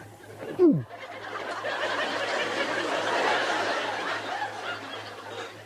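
Audience laughter that swells after about a second and fades away toward the end. Just before it, a short loud sound slides down in pitch.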